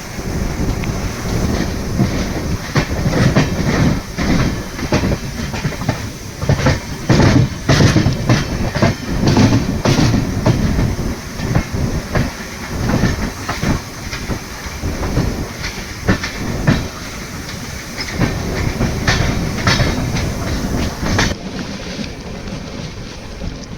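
Howrah Mail passenger train running on the rails: a heavy rumble with irregular clattering knocks of the wheels over rail joints. Near the end the sound turns duller and quieter.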